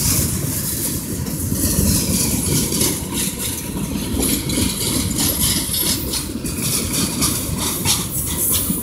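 Freight train cars (hoppers, a tank car and boxcars) rolling past: a steady low rumble of steel wheels on the rails, with frequent irregular clicks.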